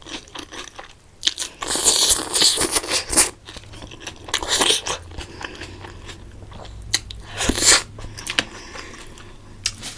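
Close-miked eating sounds: chewing and crunching in irregular bursts, loudest from about a second and a half to three seconds in, with shorter bursts around the middle and near the end.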